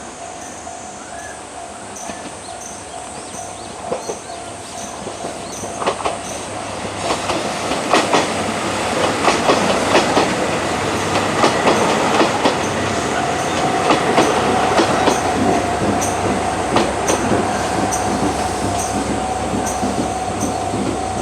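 JR Shikoku 2700 series diesel multiple unit pulling into a station. Its wheels clack over the rail joints, growing louder and busiest in the middle. A steady high whine is heard at the start and again through the second half.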